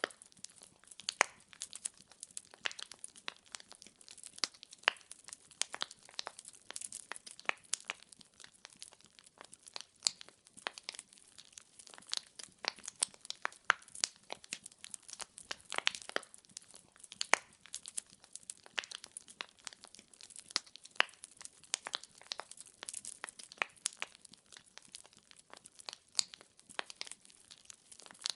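Burning wood fire crackling: dense, irregular pops and snaps from the burning logs, some sharper and louder than the rest.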